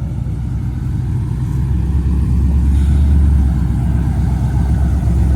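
Car engine running with a low rumble, growing louder over the first couple of seconds and then holding steady.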